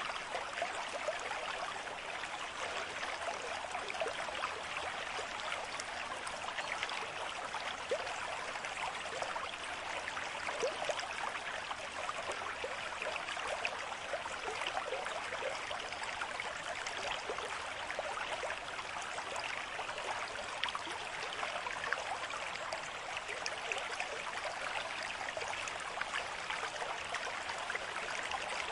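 Stream flowing steadily: an even babble of water with many small splashes and trickles.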